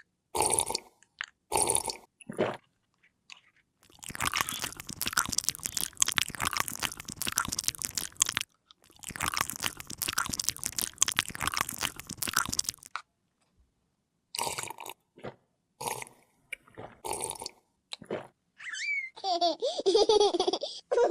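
Plastic packaging crinkling and crunching as it is handled and pulled open: short bursts, then two long stretches of dense crackling, then more short bursts. Near the end a pitched sound with wavering pitch comes in.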